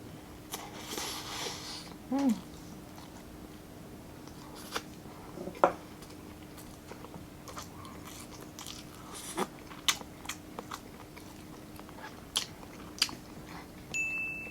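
Close-miked chewing and wet lip smacks of someone eating rice and grilled meat, with scattered sharp mouth clicks and a short hum of enjoyment about two seconds in.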